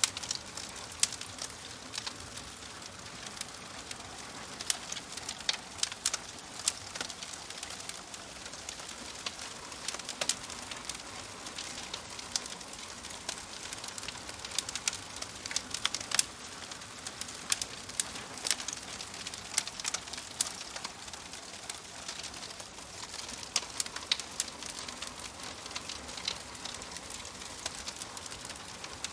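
Wood fire crackling: frequent irregular sharp pops and snaps over a steady soft hiss.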